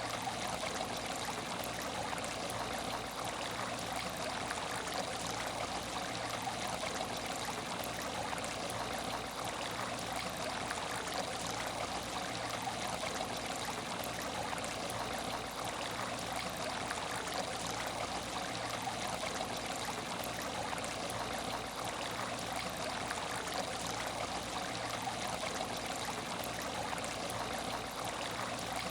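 Water running steadily in an empty aquarium tank, with no changes or separate events.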